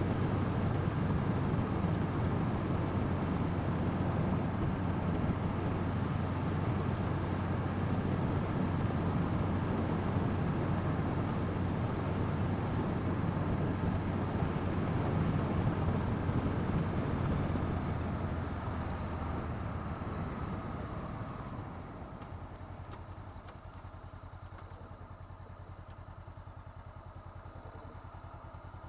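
2017 Honda CB500F's parallel-twin engine running steadily on the move, with heavy wind noise on the helmet microphone. From about eighteen seconds in the sound quietens over a few seconds and settles to a lower, steady level.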